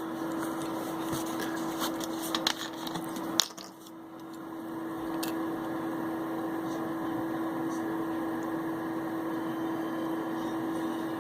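Ultrasonic cleaner running with a steady hum and hiss as a small VCR part is washed in its bath. A few light clicks of handling come in the first seconds; about three and a half seconds in the sound briefly drops away, then builds back up and runs steadily.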